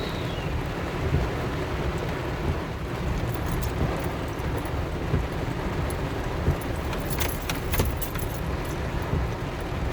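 Car driving: a steady low road-and-engine rumble heard from inside the cabin, with a brief cluster of light rattles about seven to eight seconds in.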